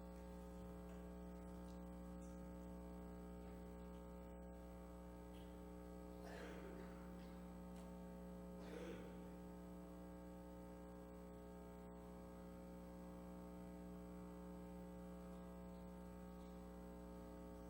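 Near silence over a steady electrical hum made of many tones, with two faint, brief sounds about six and nine seconds in.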